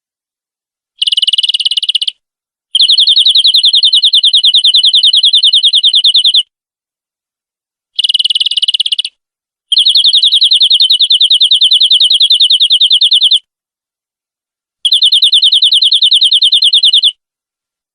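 Domestic canary singing fast, even rolling trills, high-pitched, in five separate bouts: a short, rougher trill followed by a long smooth one, twice over, then one more long trill near the end.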